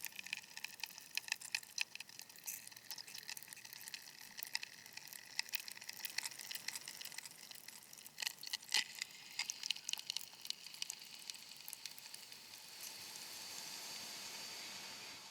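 High-pitched crackling, sizzling noise from an ambient noise soundtrack, full of dense irregular clicks; about twelve seconds in the crackles give way to a smoother hiss.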